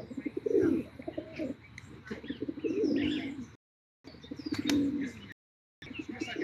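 Birds calling: repeated low calls with a few brief higher chirps. The sound drops out completely twice for a moment, about halfway through and again about a second later.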